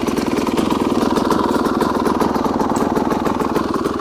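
Gas Gas EC250 single-cylinder two-stroke enduro engine running at low, steady revs, a fast, even pulsing.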